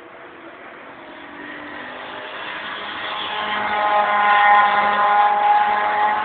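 A car engine running at fairly steady revs, growing steadily louder for about three seconds and then easing slightly, like a car driving up and past.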